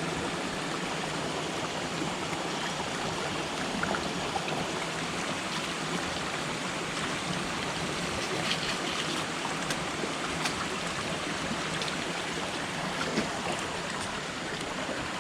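Steady rushing of a rocky jungle river's cascades, with a few faint short clicks scattered through it.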